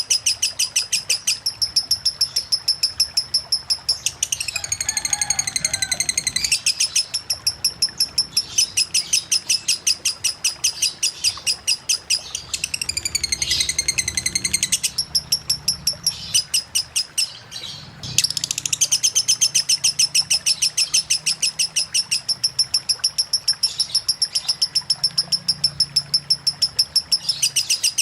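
Lovebird singing a long, non-stop 'konslet' song: rapid high chirps repeated in a fast, even rattle, broken twice by stretches of gliding, warbling notes and a brief pause a little past the middle.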